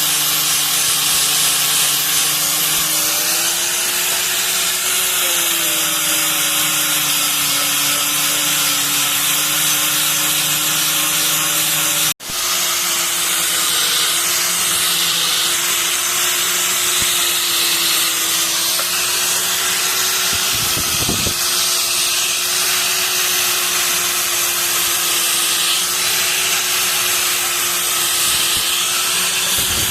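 Electric power tool running continuously under load, its motor hum wavering slightly in pitch, with a steady hiss over it. The sound cuts out for an instant about twelve seconds in, then carries on.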